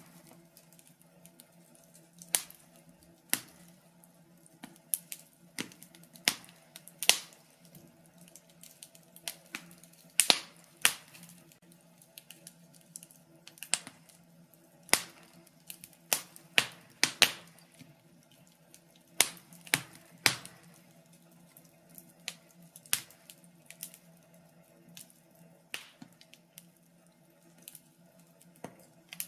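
Birch logs burning in a fireplace, crackling with irregular sharp pops and snaps over a faint low steady hum.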